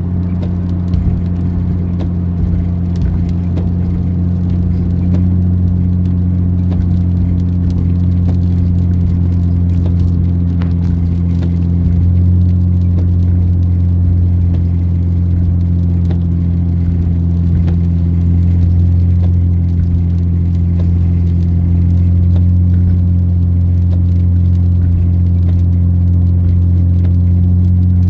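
Nissan 350Z Nismo's 3.5-litre V6 droning steadily while the car cruises, heard from inside the cabin; it grows slightly louder about twelve seconds in.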